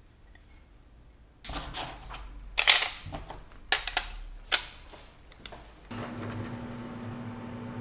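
A handful of sharp clicks and knocks as foiled stained-glass pieces are handled on the work surface. About six seconds in, a steady low electric hum starts and keeps going.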